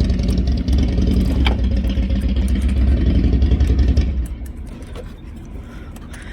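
Motorcycle engine running with a steady low rumble, then dying away about four seconds in.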